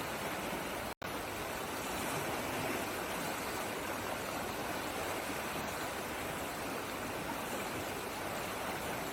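Steady rushing water, a stream or small waterfall, flowing without change. The sound cuts out for an instant about a second in.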